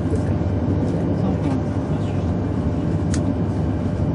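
Running noise inside the cabin of a 200 series Shinkansen: a steady low rumble, with a single sharp click about three seconds in.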